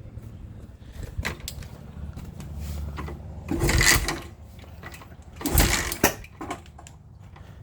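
Cold 1974 Honda CB360 parallel-twin being kick-started on choke: the engine turns over and sputters briefly without settling into an idle, then two hard strokes of the kick-starter about two seconds apart fail to bring it to life.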